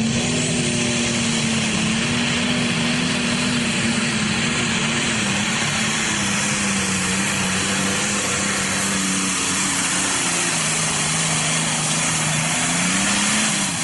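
A Pro Stock pulling tractor's turbocharged diesel engine running flat out during a pull. It is steady and loud, with its pitch sagging slowly, picking up briefly near the end, then dropping away.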